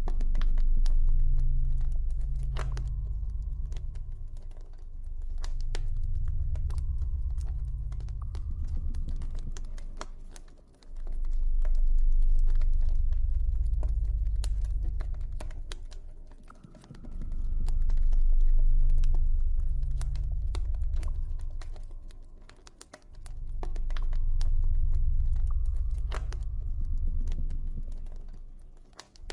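Campfire crackling with many small sharp pops, over a deep ambient music drone that swells and fades about every six seconds.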